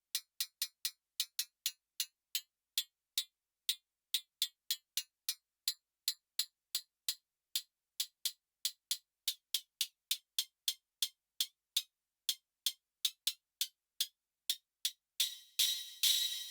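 Elektron Syntakt's CY Alloy digital cymbal machine playing a sequenced pattern of very short, thin metallic ticks, all high with no low end. About a second before the end the hits lengthen into longer, ringing cymbal washes.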